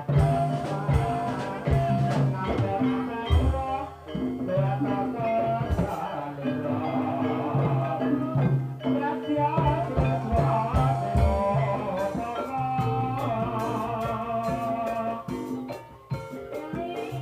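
Javanese gamelan-style ensemble music with singing: held metallic-sounding notes over a steady low beat, without a pause.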